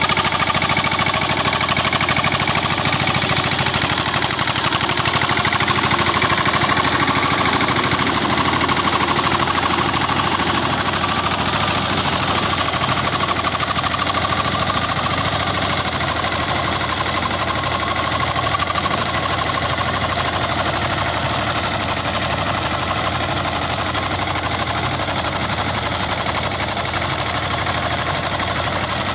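Captain 200 DI tractor's diesel engine running steadily.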